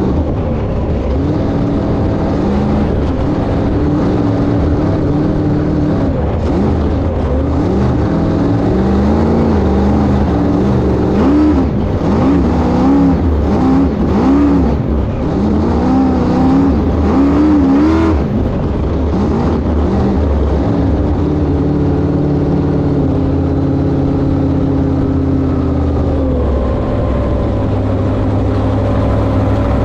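Inboard engine of a 1971 Sanger flat-bottom V-drive boat running under way. Its pitch rises and falls over and over through the middle, then holds steadier near the end.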